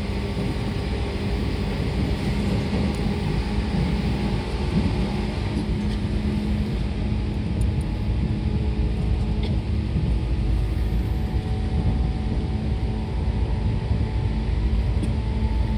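Seibu 2000 series electric commuter train running at a steady speed: a continuous low rumble from wheels and track, with a steady electrical hum that neither rises nor falls.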